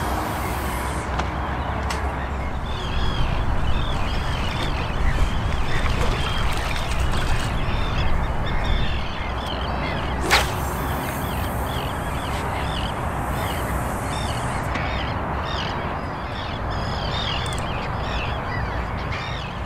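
A bird calling over and over in short arched notes, roughly two a second, over a steady background hiss, with one sharp click about halfway through.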